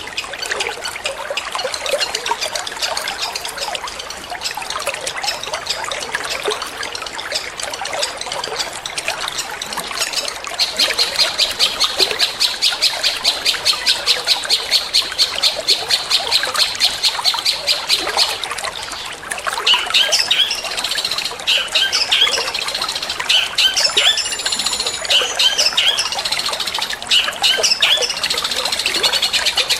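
Long-tailed shrike song over trickling water: after a third of the way in, a fast run of sharp repeated notes, about five a second, for several seconds, then harsh chattering, squawking calls.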